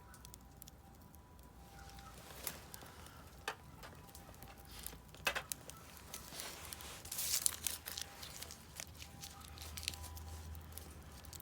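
Wood fire burning in a Solo Stove Campfire fire pit, crackling with irregular pops and snaps that bunch together about seven seconds in.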